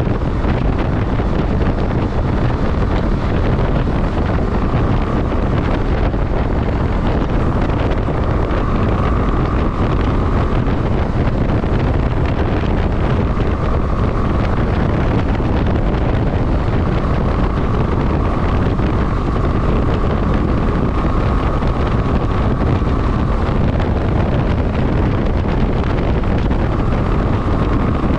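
Wind rushing over the microphone of a motorcycle in motion, a dense steady roar with the bike's running sound underneath. A faint high hum fades in and out several times.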